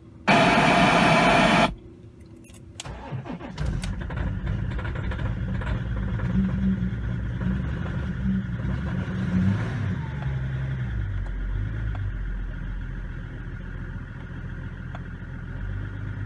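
A very loud burst of noise for about a second and a half that cuts off suddenly, then the BMW X5 E53's 3.0-litre inline-six turbodiesel cranks, catches on a cold start and runs at a raised idle that drops to a lower, steady idle about ten seconds in.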